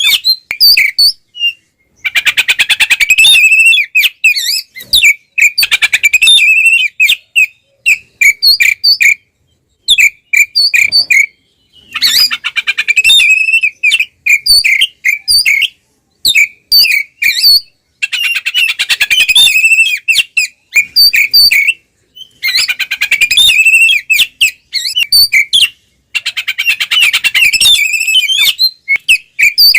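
Oriental magpie-robin (kacer) singing its loud fighting song, which keepers call ngeplong: rapid, stuttering, harsh phrases in bursts of two to four seconds. Short pauses and scattered single notes fall between the bursts.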